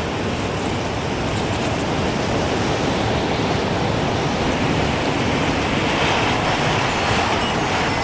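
Gusting wind, a steady rushing noise that swells about six seconds in. Faint high tinkles from a wind chime begin near the end.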